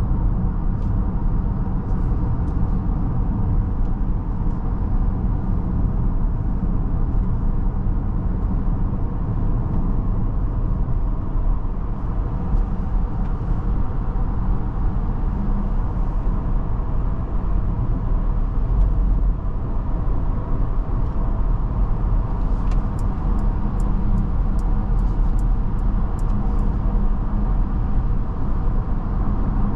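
Steady low road and tyre rumble heard inside the cabin of a Mercedes-Benz GLB350 on the move. A run of light, quick ticks, about three a second, comes about three quarters of the way through.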